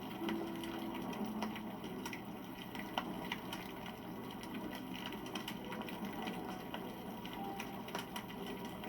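Wood campfire crackling, with frequent small irregular pops and snaps over a steady hiss of the flames.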